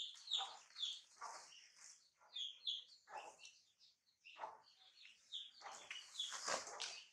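Small birds chirping: short high notes repeated a few times a second, among soft irregular noises.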